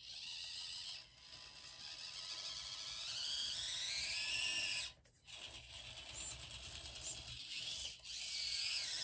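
Small RC crawler's electric motor and drivetrain gears whining as it climbs a steep ramp. The pitch rises under load, the sound cuts off just before halfway, then resumes.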